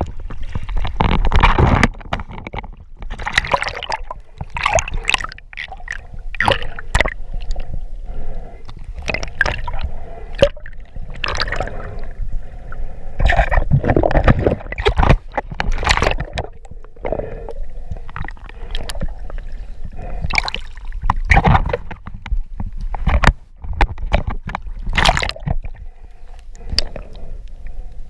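Water sloshing and gurgling around the camera in irregular bursts.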